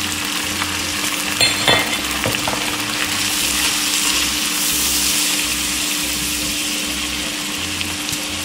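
Onion, garlic and tomato purée sizzling steadily in hot oil in a non-stick wok while a silicone spatula stirs through them. There are a few short clicks about a second and a half in, and the sizzle swells a little in the middle.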